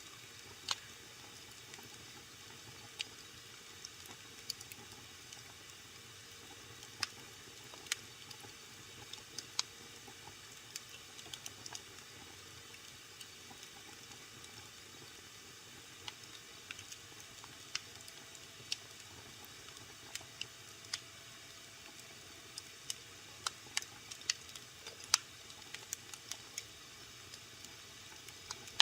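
Wood fire burning in a fireplace, crackling, with sharp pops and snaps at irregular intervals over a soft steady hiss. The loudest pop comes a little before the end.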